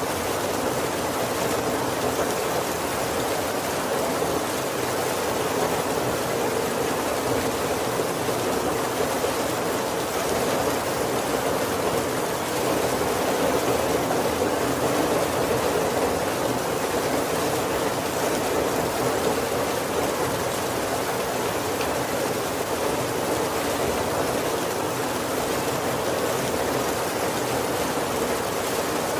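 Heavy rain falling steadily on the roof of a wooden carriage, an even wash of rain noise with no thunder.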